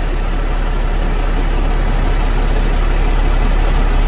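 Heavy truck's diesel engine idling, a steady low rumble.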